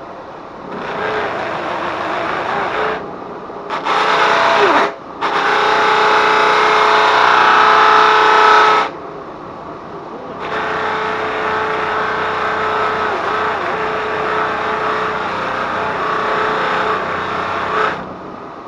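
Grinder spinning a homemade plywood sanding wheel with sandpaper loops and brush bristles, a loud rush of air over a steady hum. It runs in several stretches that start and stop abruptly, loudest in the middle stretch.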